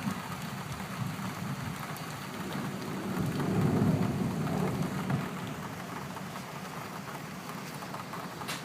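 Steady rain falling, with a low rumble of thunder that swells about three seconds in and dies away a couple of seconds later.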